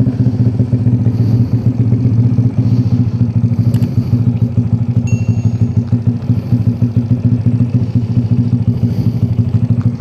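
Modified Honda Revo 110 motorcycle's single-cylinder four-stroke engine running steadily with an even, rapid exhaust pulse and no revving.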